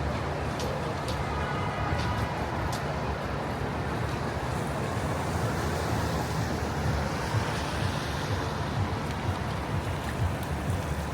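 Wind buffeting the microphone in a steady low rumble over a wash of city street traffic.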